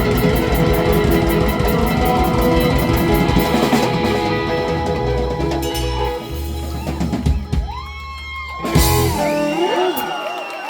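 Live rock band with drum kit and guitar playing the closing bars of a song, easing into held chords and ending on a final hit about nine seconds in. Crowd voices and cheering start up just after.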